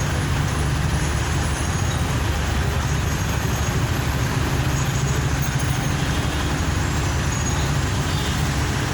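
Steady rumble of a car being driven, engine and tyre noise on the road, heavy in the low end and unchanging throughout.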